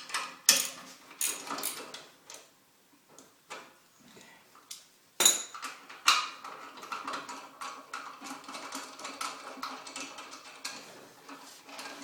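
Metal clinks and knocks of hand tools on the brake caliper bracket bolts as they are backed out, with two loud knocks about halfway through, followed by several seconds of small rapid clicking.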